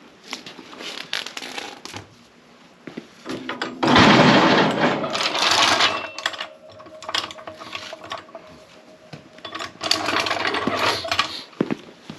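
Metallic clinking and rattling of hand tools at work on a trailer wheel, with a loud noisy stretch about four seconds in and another near ten seconds, and a thin steady squeak between them.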